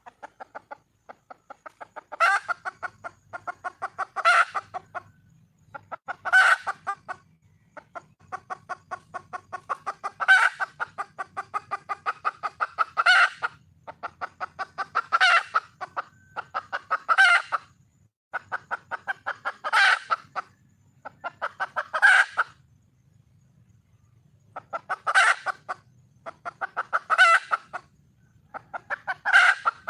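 Red junglefowl hen calling for a mate: a fast, steady run of clucks, broken about every two seconds by a louder, harsher call.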